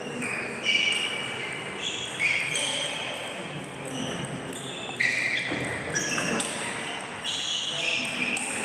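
Table tennis balls clicking sharply off bats and table in a large hall, with a few distinct hits spaced a couple of seconds apart over a low murmur of voices.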